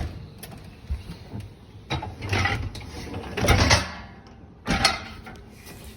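A few sharp knocks and two longer sliding, scraping sounds, the noise of something being handled and moved.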